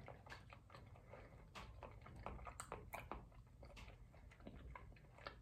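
Faint chewing: soft, scattered mouth clicks and smacks while eating.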